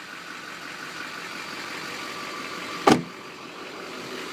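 A 2006 GMC Sierra 3500's 6.6-litre Duramax turbo-diesel V8 idling steadily, with one sharp knock about three seconds in.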